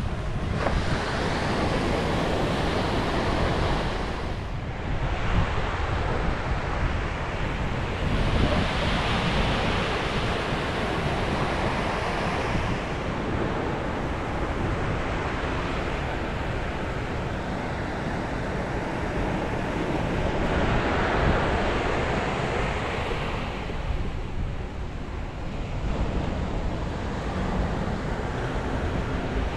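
Sea waves breaking and washing on a beach, the surf swelling and easing every several seconds, with wind rumbling on the microphone.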